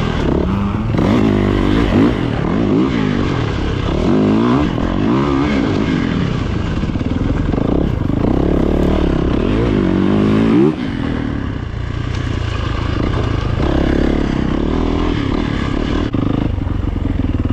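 Four-stroke dirt bike engine being ridden, the throttle rising and falling several times in quick succession, then easing off to a steadier run for the last few seconds.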